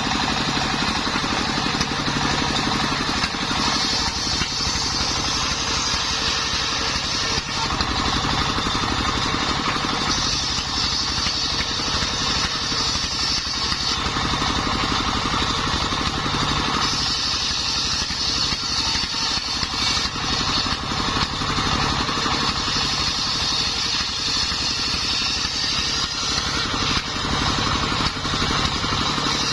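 Engine-driven homemade circular sawmill running steadily. The blade whine rises in stretches of several seconds as it rips through timber, about four cuts in a row.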